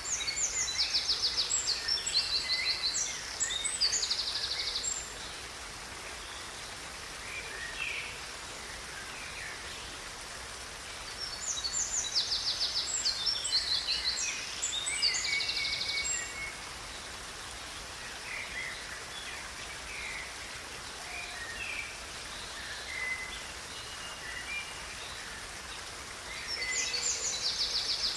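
A songbird singing phrases of fast, high trills, each a few seconds long: at the start, about twelve seconds in, and near the end, with softer scattered chirps between. Under it runs the steady rush of a river.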